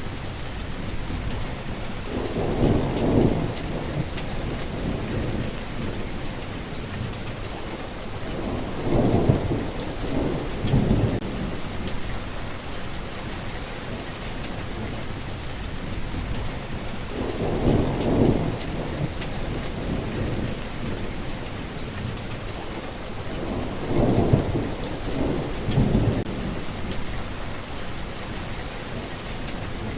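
Steady rain falling, with low thunder rumbling four times, several of the rolls coming in two quick pulses.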